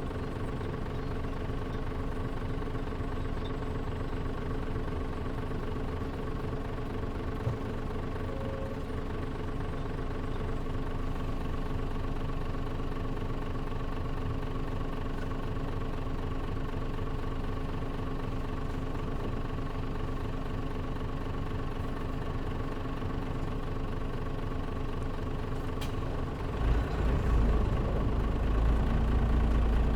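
Engine of a Mitsubishi Fuso Aero Star city bus (KL-MP37JM) idling steadily, heard from inside the cabin with the air conditioning off. About 27 seconds in, the engine grows louder and deeper as it takes up load.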